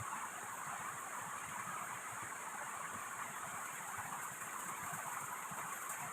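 Heavy rain and rushing river water making a steady, even hiss that runs on without a break.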